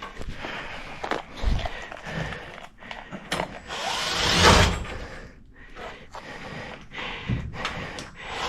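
Hand tools working hard yellow pine: scattered knocks and clicks, with one longer, louder grinding burst about four seconds in.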